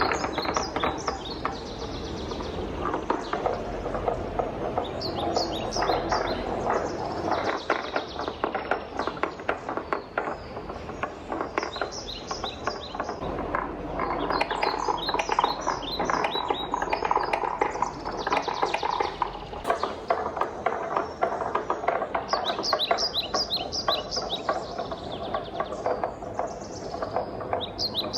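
Wooden balls rolling and clattering down a wooden marble run track, a continuous stream of rapid clicks and knocks. Birds chirp in short repeated phrases in the background.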